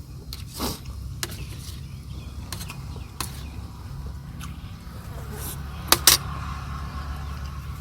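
Scattered sharp clicks and knocks of utensils and dishes during a meal, with a pair of louder knocks about six seconds in, over a steady low rumble.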